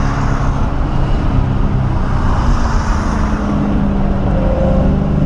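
1997 SVT Cobra Mustang's 4.6-litre V8 running hard at track speed, heard from inside the cabin, with its engine note climbing partway through over steady road and wind noise.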